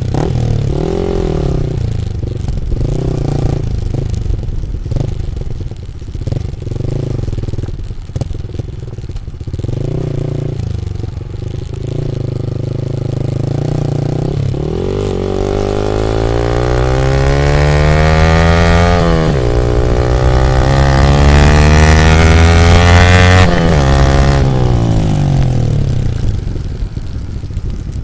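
Yamaha MT-15 V2's single-cylinder engine through an Akrapovic full exhaust system, running at low revs with a few short rises in pitch. About halfway through it accelerates and grows louder: the pitch climbs, drops sharply once as at a gear change, climbs again, then falls away near the end.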